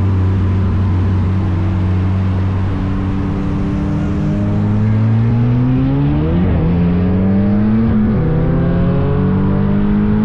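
High-horsepower street car engines under hard acceleration in a roll race. Engine pitch climbs, drops sharply at gear shifts about six and a half and eight seconds in, and climbs again.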